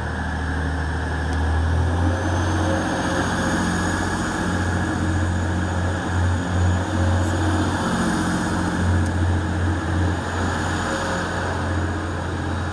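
TransPennine Express diesel multiple unit departing from the platform, its engine note rising and growing louder about two seconds in as it pulls away.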